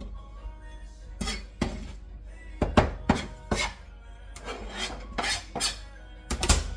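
Kitchen clatter: dishes and utensils knocking and clinking in a run of irregular sharp knocks, with faint background music under it.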